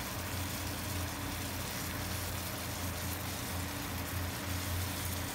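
Halved bananas frying in melted butter in a pan: a steady sizzle with fine crackling, over a steady low hum.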